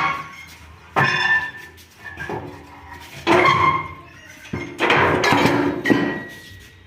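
Heavy metal parts of a combine harvester's thresher clanking and ringing as they are worked loose: a few hard knocks about a second apart, then a longer scraping, rattling stretch near the end.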